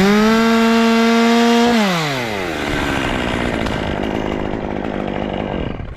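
Chainsaw engine revved up to full throttle and held high for about two seconds, then easing off with a falling pitch. It keeps running roughly until it drops away near the end.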